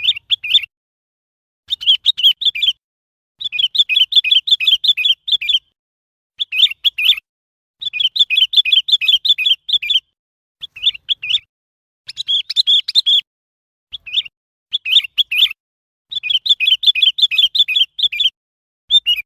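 Sooty-headed bulbul calling: runs of quick, high chirping notes, some short and some lasting a couple of seconds, repeated with brief pauses between them.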